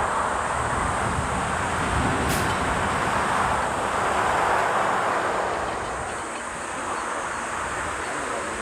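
Jet airliner engine noise as a plane passes near the runway: a loud, steady rushing sound that swells a little about four seconds in and then eases off. Gusty wind rumbles on the microphone underneath.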